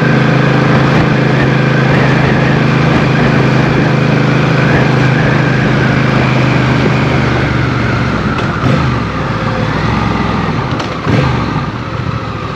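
Motorcycle engine running steadily under way, with wind rushing past. About eight seconds in, the engine note drops and shifts a few times as the bike slows.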